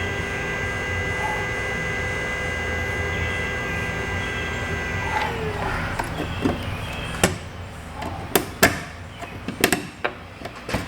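A heating tool being used on a corroded fastener runs with a steady whine of several tones. About five seconds in it shuts off, one tone sliding down as it winds down. Then come a series of sharp clicks and knocks of metal parts and tools being handled.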